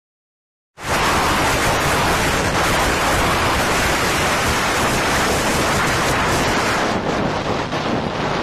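Heavy wind buffeting the microphone on a moving scooter, a dense, steady rush that starts abruptly about a second in.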